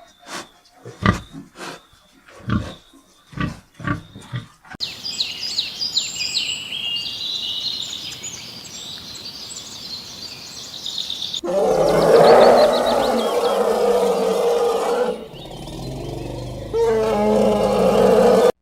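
A sequence of different animal calls. It opens with a run of short, evenly spaced calls, about one every 0.7 s. About five seconds in it changes to high twittering over a noisy background, and after about eleven seconds to louder, rougher calls.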